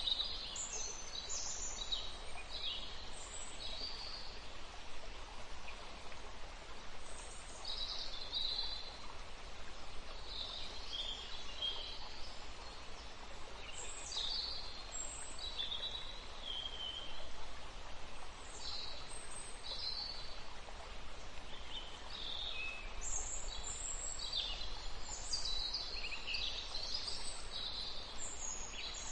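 Birds chirping and twittering in short scattered calls over a steady background hiss.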